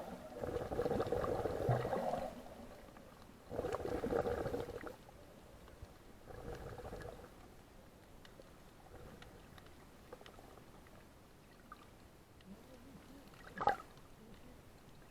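Water gurgling in a few separate bursts a couple of seconds apart, each fainter than the last, followed by a single sharp knock near the end.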